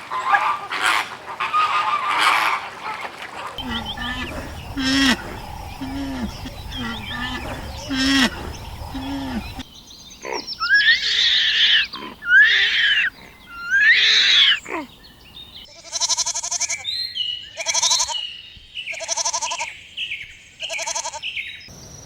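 Farm animals calling in a series of cut-together clips: repeated short low calls, then three loud rising-and-falling cries, then a run of quavering bleats near the end.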